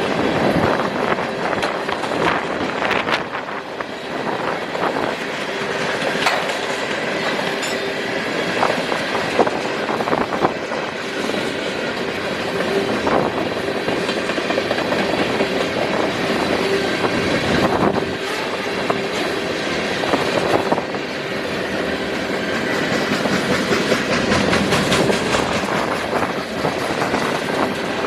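Freight train cars rolling past, wheels clacking over the rail joints in a steady stream of clicks, with a faint steady high tone from the wheels.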